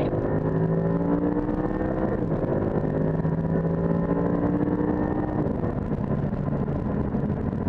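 Car engine accelerating, its pitch climbing, dropping once about two seconds in as if at an upshift, then climbing again before the engine note fades into steady road rumble for the last couple of seconds.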